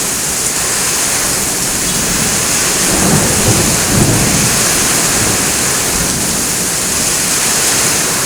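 Heavy rain pouring steadily, with a low rumble of thunder rolling in about three seconds in and dying away a second and a half later.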